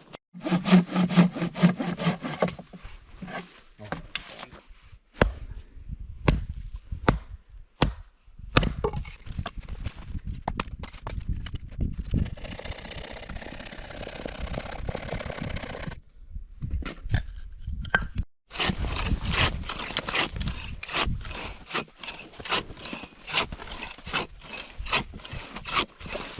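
Firewood being cut by hand: repeated saw strokes through wood, mixed with sharp knocks.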